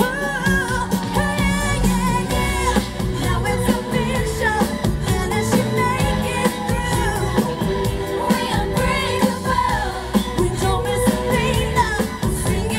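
A girl group singing a pop song live through a PA system, with a band or backing track and a steady beat.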